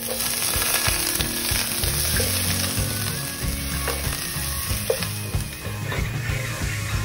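Chopped red onions hitting hot oil in a frying pan and sizzling steadily as they fry, the sizzle dying down near the end. Background music plays underneath.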